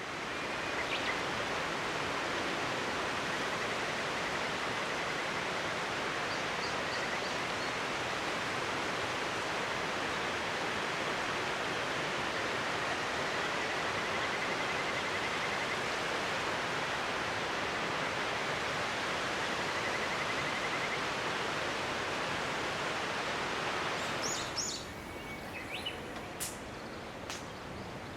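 River water rushing in a steady, even stream, with faint bird chirps over it. The water sound drops away suddenly near the end, leaving a few light clicks and knocks.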